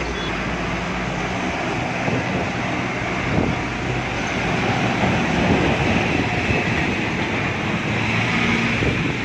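Car travelling at speed: a steady rumble of engine and tyre noise with no let-up.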